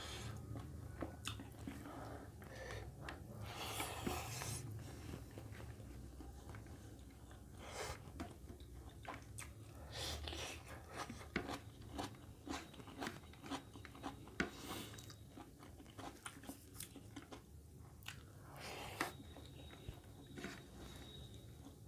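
Close-miked eating of mutton curry with rice: steady chewing and biting with many sharp crunches and clicks, and a few longer noisy mouth sounds in between.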